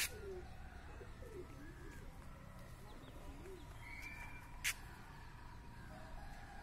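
Birds calling faintly over a quiet background, in short wavering calls, with two sharp clicks: one at the start and one past halfway.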